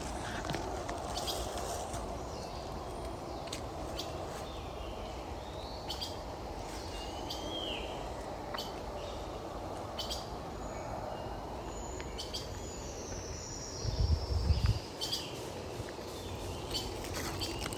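Forest birds chirping with short calls, over a steady outdoor hiss and scattered sharp clicks. A brief low rumble about fourteen seconds in is the loudest thing.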